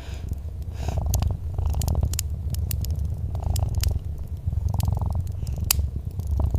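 A cat purring close up, a deep steady rumble that swells and eases with each breath, with sharp crackles and pops from a wood fire scattered through it.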